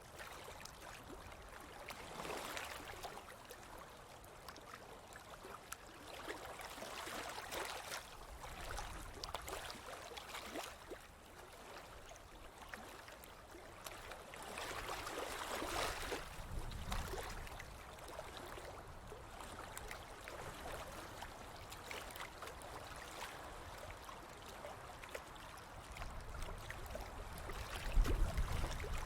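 Ocean waves washing onto a beach, the surf swelling and fading every few seconds. A low rumble near the end is the loudest moment.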